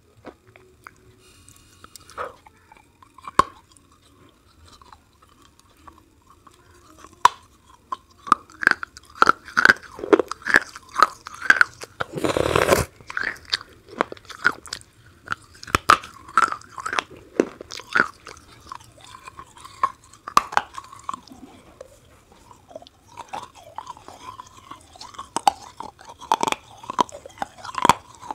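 Hard, chalky grey-white piece being bitten and chewed close to a clip-on microphone. A few separate sharp bites come first, then steady crisp crunching and chewing, with one longer, louder crunch about halfway through.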